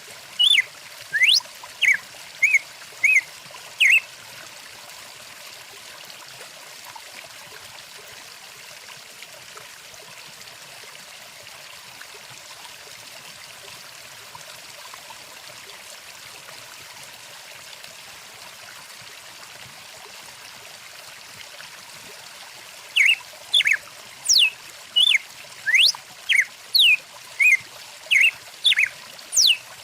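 A stream running steadily, with birds calling in quick, sharp chirps and sweeping whistles for the first few seconds. The calls stop for a long stretch, then start up again about three-quarters of the way through, with the water running on underneath.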